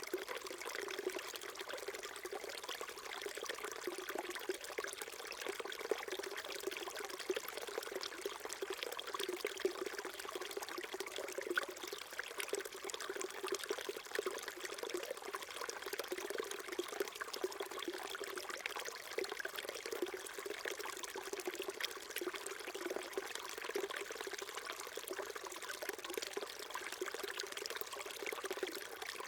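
A small stream flowing and trickling over stones, a steady, unbroken babble of water.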